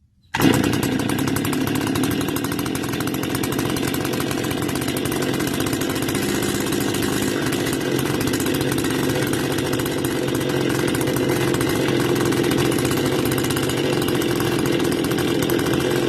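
STIHL FS280 brush cutter's two-stroke engine catching about half a second in and then running at a steady idle with the choke open. This is a cold engine that the owner says will not stay running, and it shuts down soon after.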